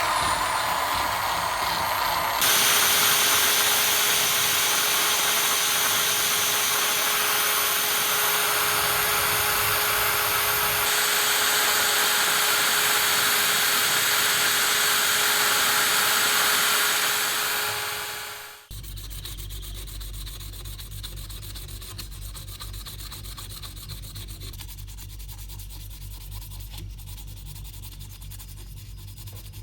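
A power sanding tool working metal: a steady loud hiss with a constant whine, which dies away about seventeen seconds in. A quieter low, steady hum follows.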